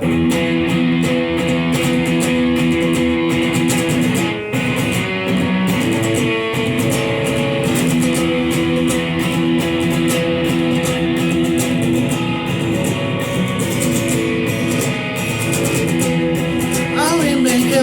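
Guitar played with a pick, a steady run of strummed strokes over ringing chords.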